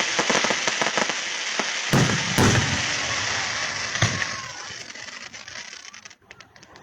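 Fireworks display: dense crackling with deep booms, two close together about two seconds in and another at about four seconds. The crackle thins and dies away near the end.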